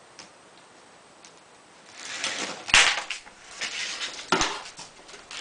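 Solar panel stand's frame tubes and corner connectors being handled and fitted together: rustling and clatter starting about two seconds in, with two sharp knocks about a second and a half apart.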